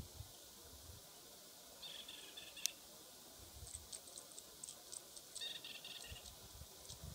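Faint, high-pitched bird chirps in two short bursts, about two seconds in and again about five and a half seconds in, with a scatter of quick high ticks between them and one sharp tick just after the first burst.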